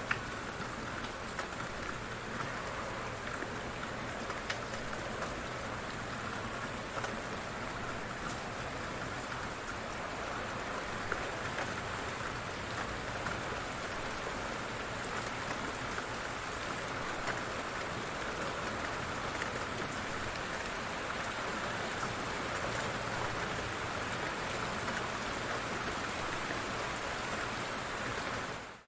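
Light rain falling steadily, a continuous hiss with scattered individual drops tapping on surfaces; it fades out right at the end.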